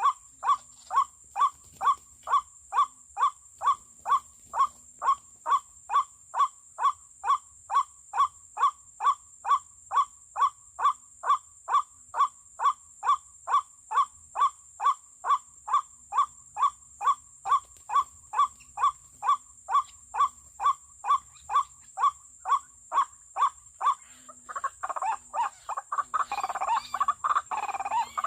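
White-breasted waterhen calls: one short note repeated very evenly, about twice a second, then about 24 seconds in giving way to a louder, jumbled run of croaking calls.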